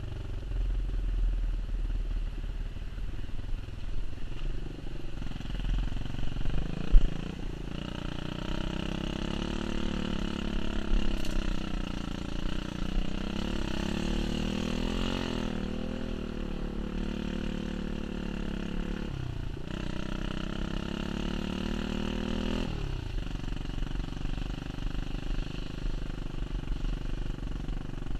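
Pit bike engine under way, revving up and down as the throttle is worked, with the pitch dropping sharply twice past the middle as the throttle is shut. A sharp knock comes about seven seconds in.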